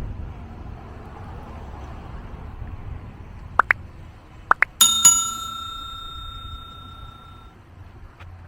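A bicycle bell rung about five seconds in, two quick strikes that ring out bright and metallic and fade over about two seconds. Two pairs of short, high rising chirps come just before it, over a low steady rumble of wind and riding noise.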